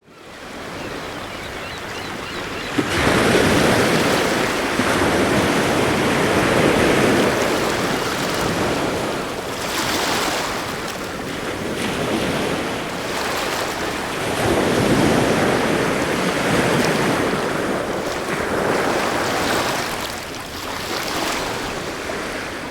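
Sea surf breaking in a strong wind, with wind buffeting the microphone. The noise jumps suddenly louder about three seconds in, then swells and eases as the waves come in.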